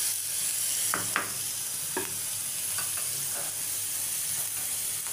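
Onions and freshly added chopped tomatoes sizzling in ghee in a stainless-steel frying pan. A wooden spatula stirs them, knocking and scraping against the pan a few times.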